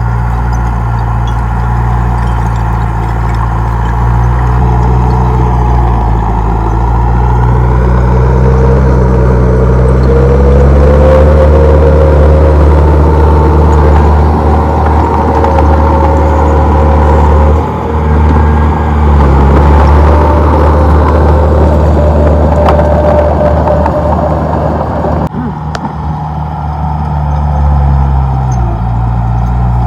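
Komatsu D31P bulldozer's diesel engine working under load. The engine note rises about a third of the way in, dips briefly twice, and drops back near the end.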